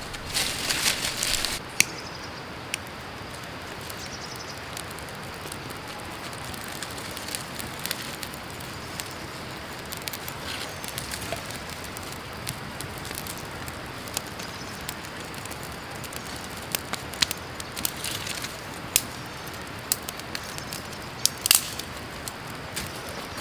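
Creek water running steadily, with scattered sharp crackles and pops from a small cooking fire. There is a louder rustle in the first couple of seconds.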